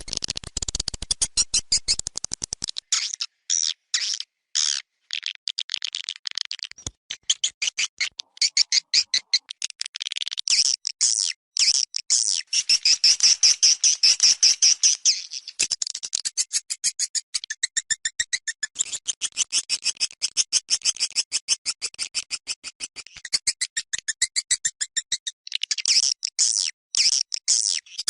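Swiftlet lure recording: a fast, dense train of short, high swiftlet chirps, many a second, broken by brief gaps. In the first few seconds a low thud sits under each chirp.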